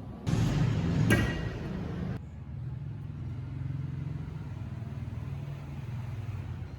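An engine running steadily with a low hum. About two seconds of loud rushing noise come over it near the start, then it settles back to the steady hum.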